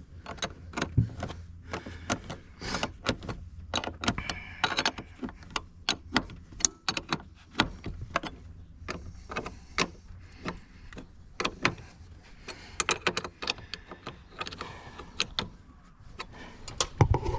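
Irregular metallic clicks, clinks and knocks of hand tools and the battery terminal as the battery is connected back up.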